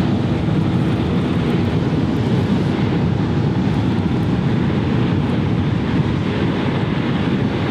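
Strong wind buffeting the microphone: a loud, steady, rumbling rush with no separate events.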